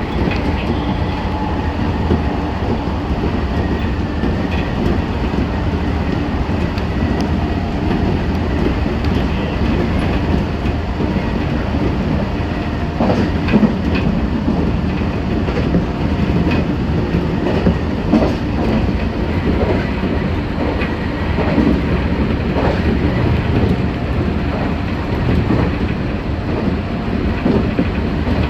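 Meitetsu 6500 series electric train running at speed, heard from inside the car: a steady running rumble with wheels clacking over rail joints, the clacks coming in scattered groups through the middle and later part.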